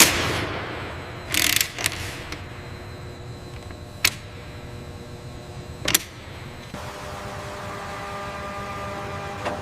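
Workshop tool sounds: two short bursts of air hiss, sharp metallic clanks about four and six seconds in, then a steady mechanical hum with several held tones from about seven seconds on.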